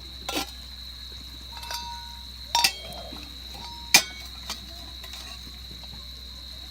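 Metal camp cookware clinking and tapping about five times, a couple of the knocks ringing briefly; the sharpest knock comes about four seconds in.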